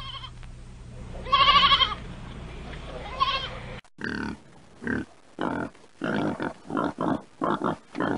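A sheep bleating, one long wavering bleat about a second and a half in and a shorter one near three seconds, over a low steady hum. After a cut at about four seconds, a small black pig grunts in short bursts, about two a second.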